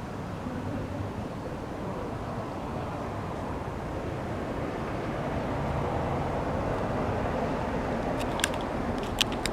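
Steady outdoor background noise, then several sharp clicks in quick succession near the end: a staple tacker fastening breathable waterproof house wrap to a new wall.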